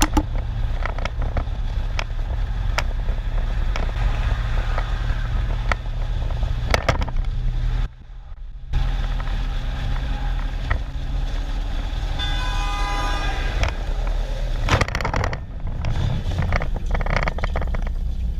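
Dashcam traffic audio: a steady low rumble of engine and road noise with scattered sharp knocks, and a vehicle horn honking for about a second and a half some twelve seconds in. The sound drops out briefly about eight seconds in.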